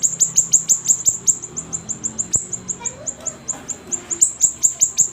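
Siri-siri songbird singing vigorously: a fast run of short, high notes, each dropping in pitch, about seven a second, with a short thinning of the run midway.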